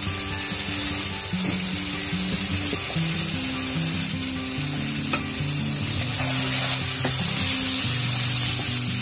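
Onions and spice paste sizzling in hot oil in a pan, with fresh coriander powder on top; the sizzle grows louder about six seconds in as the masala is stirred.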